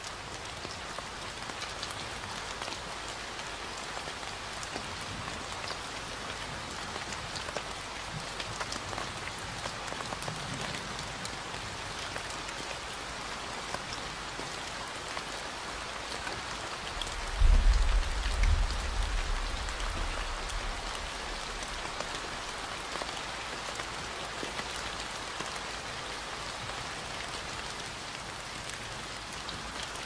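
Steady rain falling, with a deep rumble a little past halfway that fades over a few seconds.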